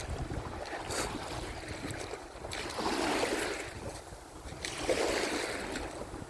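Ocean surf washing onto the beach, swelling twice, with wind rumbling on the phone microphone.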